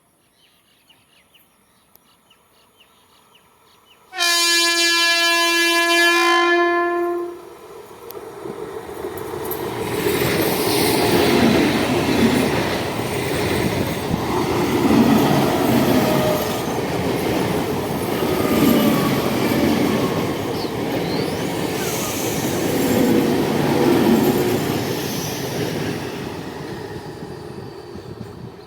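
Kulik Express passenger train sounding one loud horn blast of about three seconds, starting about four seconds in. It then runs through at speed, its wheels clattering in a regular rolling rhythm that builds up and fades near the end.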